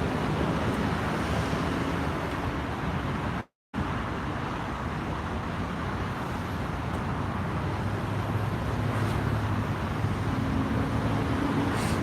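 Steady freeway traffic noise, a continuous wash of passing vehicles. The sound cuts out completely for a split second about three and a half seconds in, and a steady low hum comes in near the end.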